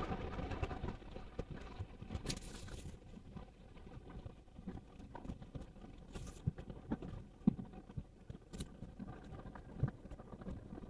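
Faint low rumble inside a Toyota Wigo's cabin, with scattered small, irregular clicks and knocks.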